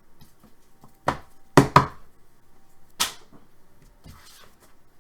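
Trading cards being handled: four sharp taps or clicks, two of them close together, then a softer rustle near the end.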